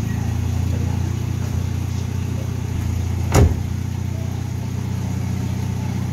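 Toyota Vios four-cylinder engine idling steadily with a low, even hum on a newly replaced engine support: no more vibration. A single sharp knock sounds about three seconds in.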